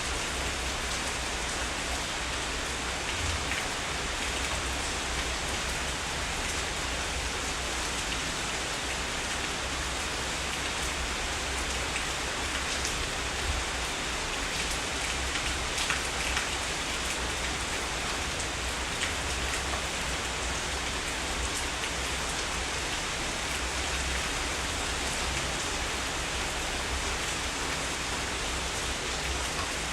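Heavy rain falling steadily: a dense, even hiss with scattered drops ticking through it.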